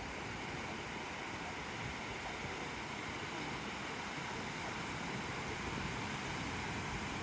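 Steady wash of surf on a beach, mixed with wind.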